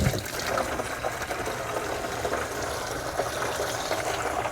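Steady rush of water from a hose running into a plastic chemical jug as it is rinsed out.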